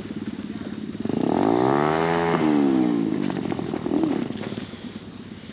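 Small dirt bike engine running, then revving up about a second in and easing back off, its pitch rising to a peak and falling, before fading away.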